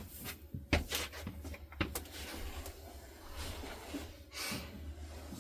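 A few scattered knocks and clicks, like cupboard doors and small items being handled in a small room, over a steady low hum.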